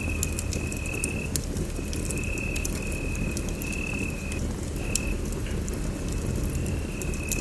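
Wood fire burning in a fireplace: a steady low rumble with irregular sharp crackles and pops. A thin, high, steady whistle comes and goes in short stretches throughout.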